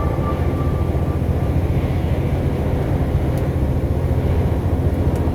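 Steady low engine and road rumble of a moving truck, heard from inside the cab. A single high steady tone fades out about a second in.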